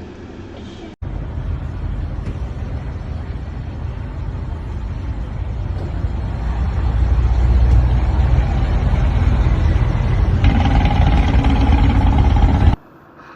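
Road vehicle engine and road noise, loud and low, building steadily over several seconds. Near the end a steady pitched tone joins in, then the sound cuts off suddenly.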